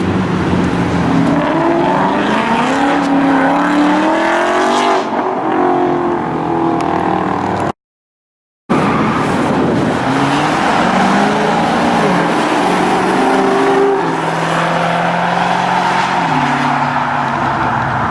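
Car engines accelerating away, their pitch rising as they rev and then dropping at a gear change. This happens in two separate passes split by a brief silent gap about eight seconds in.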